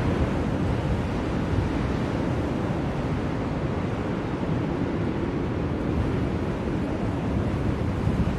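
Blizzard wind blowing steadily, a low, even rushing noise.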